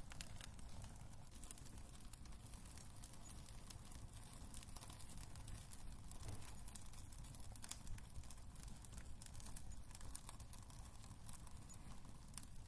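Wood fire crackling in a fireplace: irregular small pops and snaps over a low, steady rumble from the flames.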